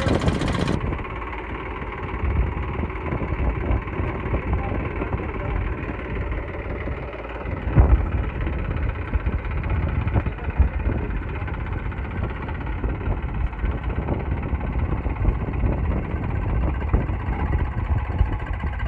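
Tractor diesel engine running steadily, with a loud knock about eight seconds in.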